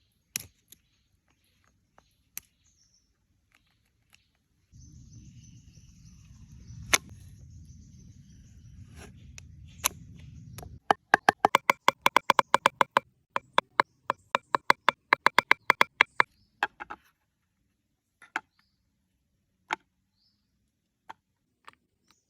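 A fast, even run of loud sharp knocks, about six a second for some five seconds, like strokes of chopping, follows a stretch of low rumbling noise; single clicks and taps are scattered around them.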